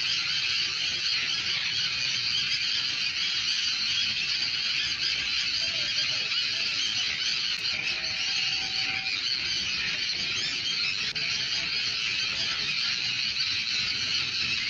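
A dense chorus of many birds calling at once, a steady high chatter with no pauses.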